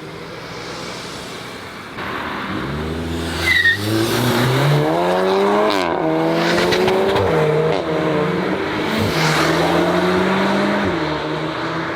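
Modified Volkswagen's engine revving and accelerating hard, its pitch climbing, dropping sharply about halfway through at a gear change, then climbing again. A short tyre squeal comes a few seconds in.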